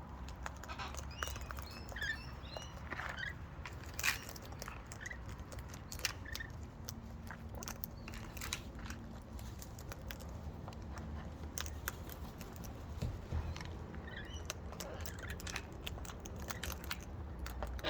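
Faint, brief bird chirps a couple of times, among many scattered sharp clicks and taps, over a steady low rumble.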